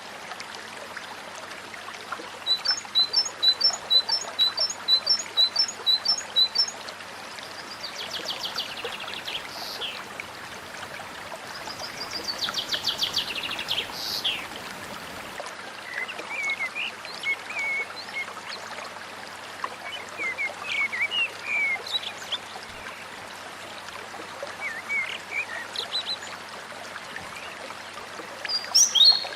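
Songbird calls over steadily trickling water. First comes a run of rapid, evenly repeated high chirps, then falling whistled sweeps, then a long fast trill about halfway through, then scattered short chirps and whistles.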